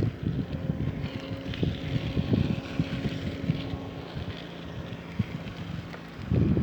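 Wind buffeting the microphone while riding a bicycle. A steady low hum runs under it from about half a second in until about four and a half seconds, and there is a stronger gust near the end.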